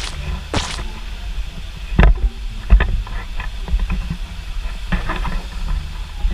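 Footsteps along a stone-slab garden path, heard through a walking handheld camera's microphone: a steady low rumble of handling and wind noise, with a couple of rustles at the start and a few sharp footfall knocks about two, three and five seconds in.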